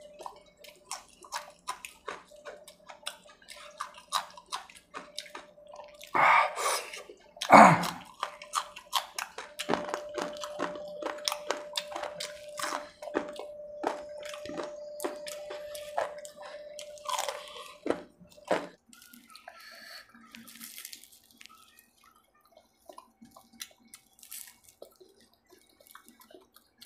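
Close-miked eating sounds: fried samosa and pakora being chewed, with many quick wet mouth clicks and smacks and two louder crunches about six and seven and a half seconds in. A faint steady hum runs under the first two-thirds, and the chewing grows quieter near the end.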